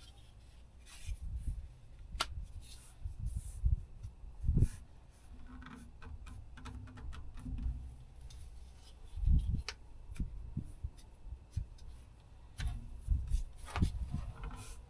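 Oil filter wrench working on a tractor's oil filter: irregular knocks, clicks and rubbing of metal as the wrench grips and slips on the stuck, oily filter, with a few louder knocks.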